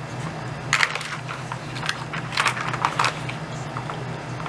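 Hard plastic clacks and rattles in a few short clusters as a dog noses and pushes the sliding pieces and caps of a plastic Dog Brick treat puzzle, over a steady low hum.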